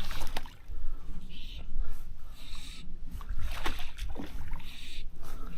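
Water splashing and sloshing as a hooked trout thrashes near the surface, in short repeated bursts, over a steady low wind rumble on the microphone.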